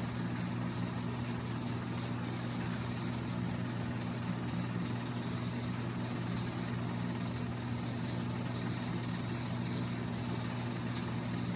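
Steady low hum of a running machine, several even tones held constant, with a faint high steady whine above them.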